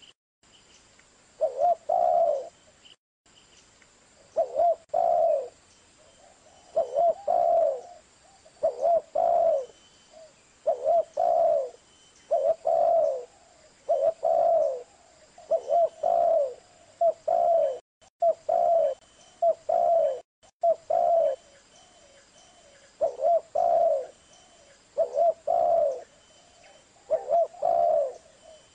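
Zebra dove (perkutut) cooing: a short phrase of a few low, pitched coos, repeated about every two seconds.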